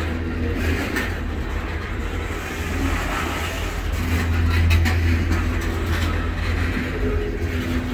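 Freight train of boxcars rolling past on the rails: a steady low rumble of steel wheels with a few sharp clicks.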